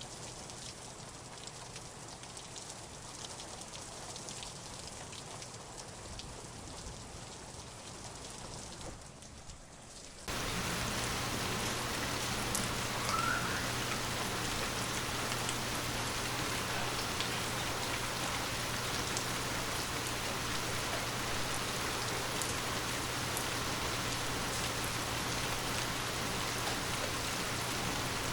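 Rain falling steadily, lighter and softer at first, then switching abruptly about ten seconds in to a louder, denser rain.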